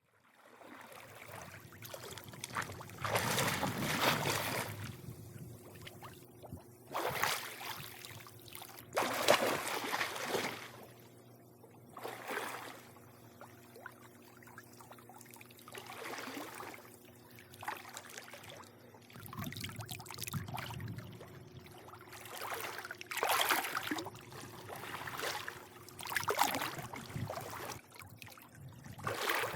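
Swimming pool water lapping and sloshing at the edge in irregular swells every few seconds, over a steady low hum.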